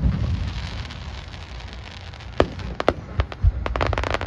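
Aerial fireworks: a steady crackling hiss of sparkling shells, then sharp separate bangs from about two and a half seconds in, ending in a fast run of pops.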